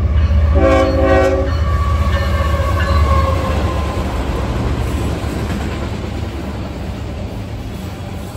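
Diesel-hauled freight train passing close by: a short horn blast about half a second in, then the rumble and wheel clatter of autorack cars rolling past, slowly easing off.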